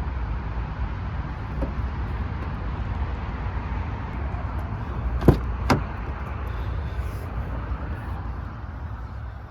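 Two sharp clicks of a car's latch about half a second apart, over a steady low rumble.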